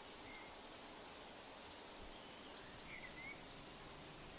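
Quiet outdoor ambience with a few faint bird chirps scattered through it.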